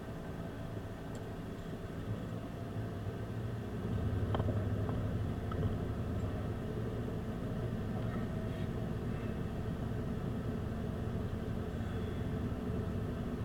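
A car's engine running with a steady low hum, getting louder about four seconds in.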